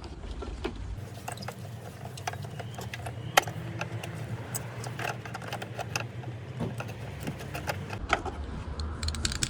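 Hand tool working a Torx T30 bolt loose on a car's rear lamp: a run of irregular sharp metallic clicks and taps, the loudest a little after three seconds in, over a steady low hum.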